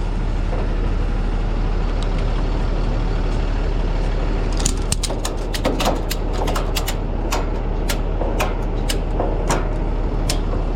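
Ratchet tie-down strap being cranked tight, a run of sharp clicks starting about four seconds in and coming about two a second, over the steady running of a truck engine.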